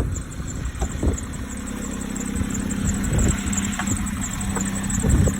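2007 Jeep Compass 2.4-litre four-cylinder engine idling steadily, heard from the open engine bay.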